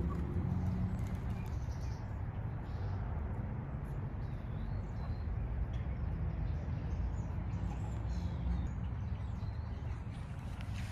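Faint bird chirps now and then over a steady low rumble.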